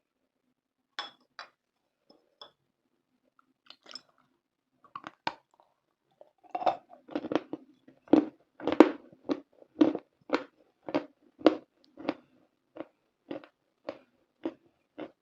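Close-miked chewing of something dry and crunchy: a few light crackles at first, then steady crunching bites about two a second.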